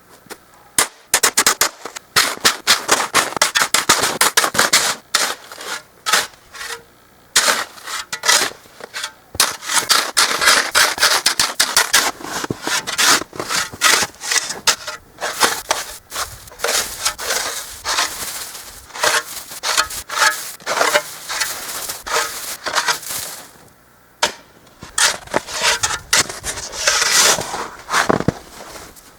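Repeated crunching, scraping strokes in snow, coming in irregular runs with short pauses about seven and twenty-four seconds in.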